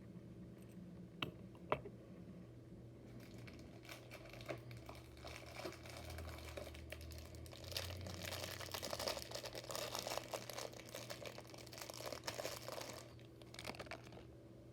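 Plastic bag crinkling and rustling as a small diecast model is pulled out of it, after two light clicks a little over a second in. The crinkling builds a few seconds in, is loudest in the last third, and stops shortly before the end.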